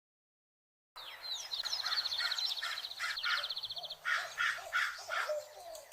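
Birds calling in woodland, starting about a second in after silence: a series of short, harsh, cawing calls alongside a fast, high trill that stops about halfway through.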